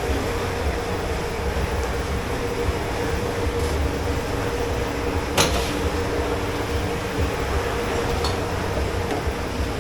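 Steady low rumble and hum of commercial kitchen machinery in a dish pit, with one sharp clink about five and a half seconds in.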